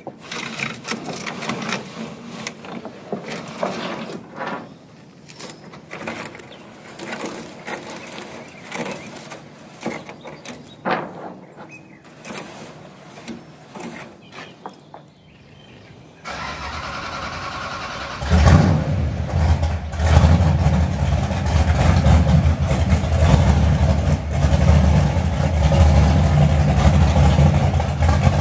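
Scattered knocks and clatter, then about two-thirds of the way through an engine starts. It keeps running loudly and steadily with a deep low sound.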